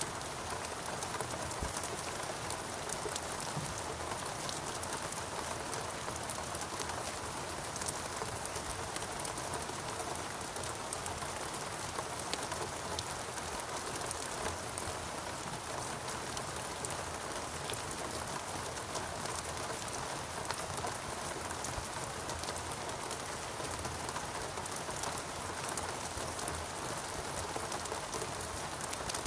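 Steady rain falling on foliage in a rainforest, an even hiss dotted with the ticks of separate drops.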